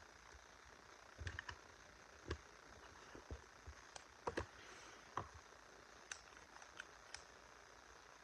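Scattered light clicks and taps of small objects being handled, about a dozen spread irregularly through, over a faint steady hiss.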